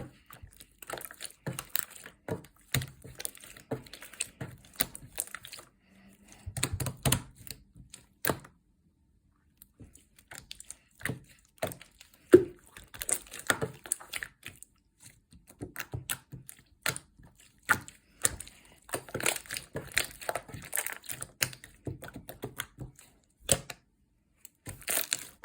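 Slime being squeezed and pressed by hand, making rapid sticky clicks and crackles in irregular clusters, with a short pause about a third of the way in.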